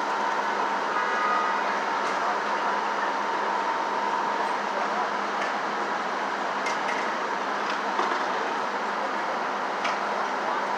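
Steady vehicle and street noise with a faint constant hum and a few faint clicks.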